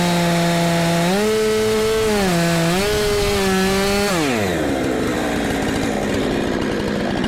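Two-stroke chainsaw running at high revs while cutting into a red oak log to dig out embedded nails, its pitch wavering with the load. About four seconds in the throttle is released and the engine falls back to idle.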